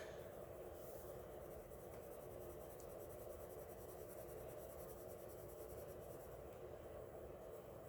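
Coloured pencil rubbing steadily and faintly on paper as the colours are blended together.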